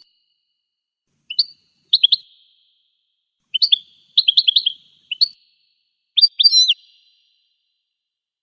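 Goldfinch song: short clusters of quick, high chirps and twittering notes, separated by silent gaps.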